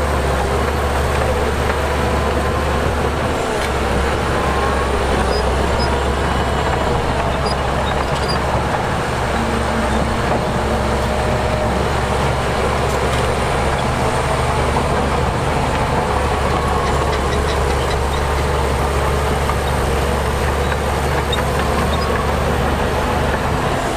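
Heavy diesel earthmoving machinery running steadily, its engine note drifting slightly up and down.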